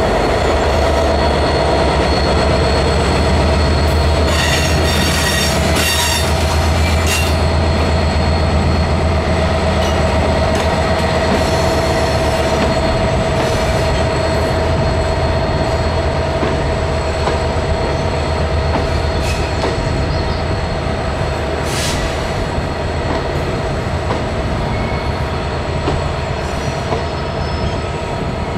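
Train wheels rolling on the rails with a steady low rumble and a sustained high wheel squeal. A cluster of sharp metallic squeaks and clanks comes about five seconds in, and a single sharp click later on. The rumble eases slightly in the second half.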